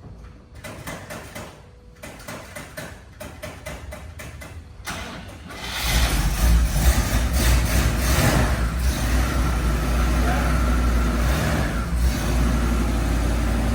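1960 Chevrolet Impala cold start after sitting two weeks in below-freezing temperatures: the starter cranks for about five seconds with short breaks, the engine catches about six seconds in, runs unevenly with some revving for a few seconds, then settles into a steady idle.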